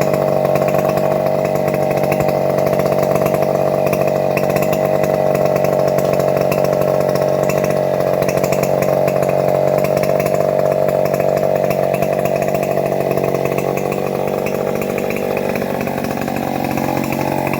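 Motor-driven saw cutting teak, its engine running steadily at high revs. About three quarters of the way through, the engine note and loudness sag briefly as it loads up in the cut, then recover.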